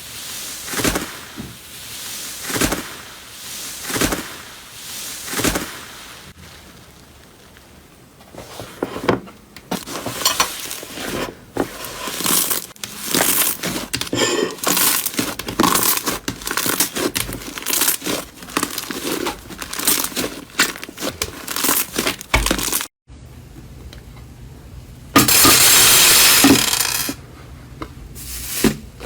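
Slime being squeezed, pressed and pulled by hand, giving a string of sticky pops and crackles. It changes suddenly about 23 seconds in, and a couple of seconds later comes a louder, denser crackling stretch.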